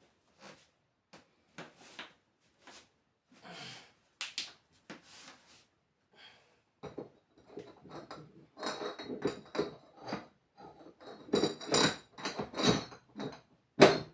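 Metal motorcycle parts being handled and fitted: a run of clinks and knocks, sparse at first and then quicker and louder from about halfway, some with a short metallic ring, with one sharp knock near the end.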